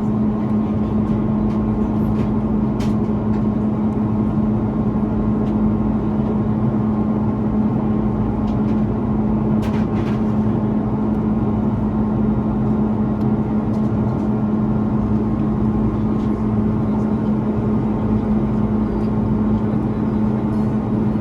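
Steady cabin noise of an Airbus A330-300 climbing, its Rolls-Royce Trent 700 engines and airflow making an even roar with a steady low hum. A couple of faint clicks sound briefly.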